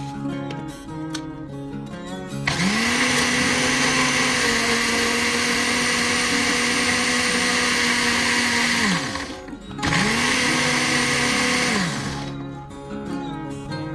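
An electric kitchen blender motor spins up and runs at a steady pitch for about six seconds, then winds down. It starts again for a second short run of about two seconds and winds down again.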